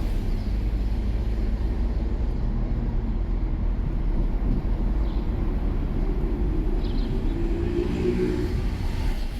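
Car on the move: a steady low engine and road rumble, the engine note shifting slightly in pitch and a little louder midway.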